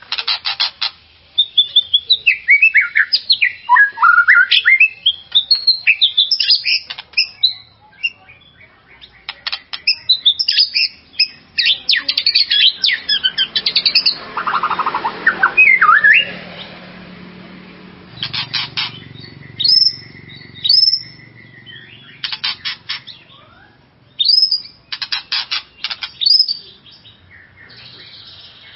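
White-rumped shama (murai batu) singing an agitated, excited song used as a lure to rouse other shamas. It is a mix of loud sliding whistles and rapid chattering note runs, delivered in bursts with short pauses.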